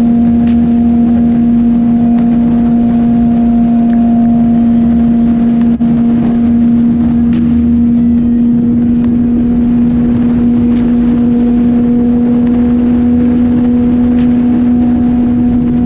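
Suzuki GSX-R sport bike's inline-four engine running at a steady pitch while cruising at constant speed, with wind rumble on the microphone.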